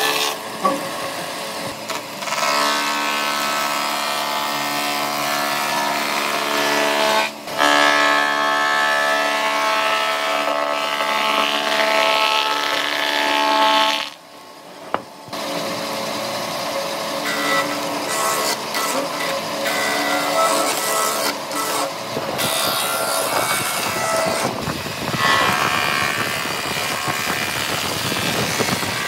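Woodworking power tool running with a steady whine, cutting out for a moment twice, the second time about halfway through.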